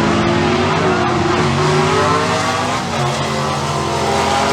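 V8 Stock Eliminator drag cars, among them a 1966 Chevy with a 327, running a pass at full throttle, engine pitch climbing and shifting as they accelerate.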